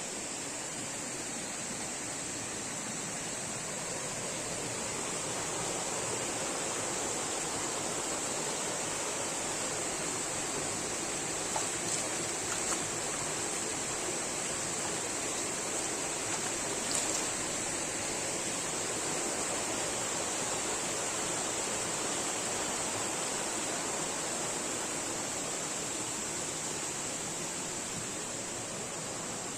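Forest stream water running steadily over rocks, with a steady high hiss above it and a few faint knocks around the middle.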